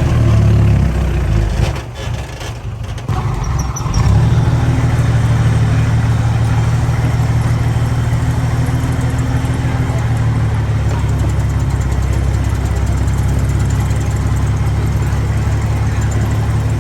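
Heavy earthmoving machine's diesel engine running loud and steady. It drops away briefly about two seconds in, then comes back abruptly at about four seconds and runs steady again.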